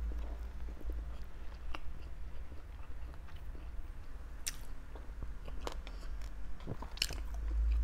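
A person biting and chewing grilled Thai pork barbecue close to the microphone, with scattered short mouth clicks and smacks over a steady low hum.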